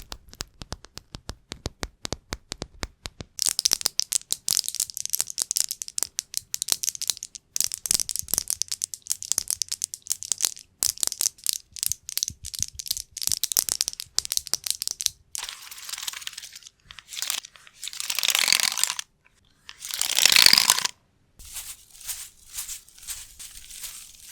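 Close-miked ASMR trigger sounds: rapid light tapping, then dense crinkly scratching, then a few longer swishing rubs, with quick tapping again near the end.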